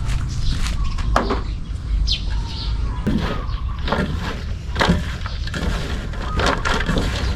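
Irregular knocks and taps from handwork, about one or two a second, with birds chirping now and then.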